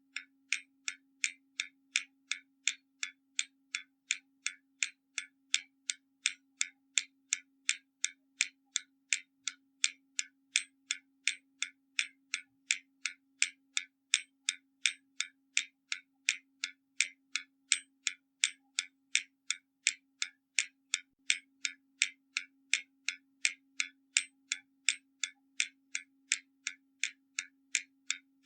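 Hermle mechanical skeleton clock ticking, sharp even ticks at about three a second from its escapement, with a very faint steady low hum underneath.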